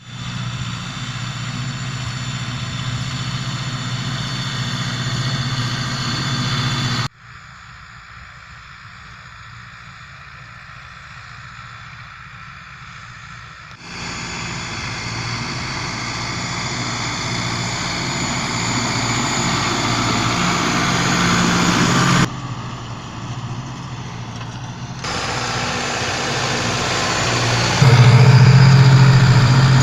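Zetor Forterra 115 tractor's four-cylinder turbodiesel engine running steadily. It is heard in several spliced takes that change abruptly: a quieter, muffled stretch comes early, and the engine is loudest near the end.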